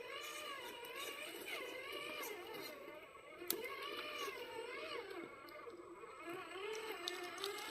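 Electric motor and gearbox of a radio-controlled scale truck whining, the pitch rising and falling as the throttle changes. There is a sharp click about halfway through.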